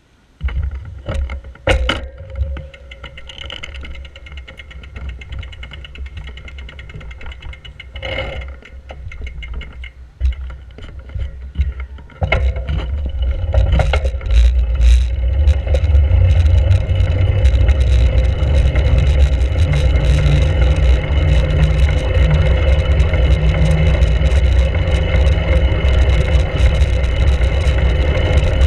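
Wind buffeting a GoPro's microphone on a moving bicycle, a low rumble with a few knocks near the start. The rumble grows much louder about twelve seconds in and stays loud and steady.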